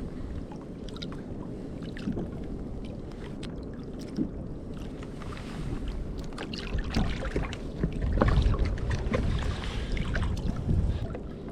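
Water lapping and sloshing against a drifting kayak's hull, with wind on the microphone and scattered small knocks. It grows louder over the second half.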